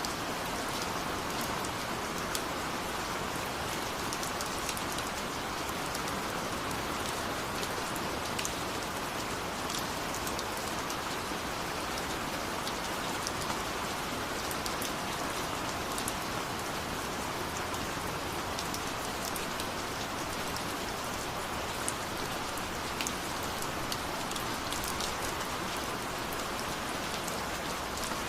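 Steady rain falling, a constant hiss with many small drops ticking sharply on a surface.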